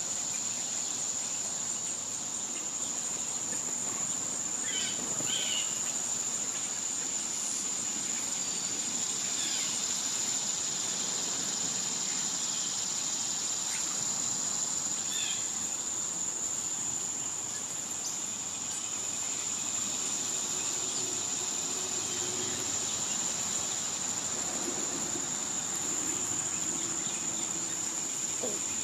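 A steady, high-pitched drone of cicadas, with a few short bird chirps now and then.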